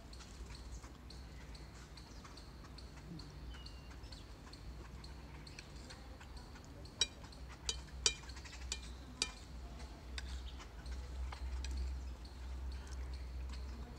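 Birds bathing in a bird bath: scattered light clicks and drips, with four sharper clicks about seven to nine seconds in, over a low rumble that grows louder in the second half.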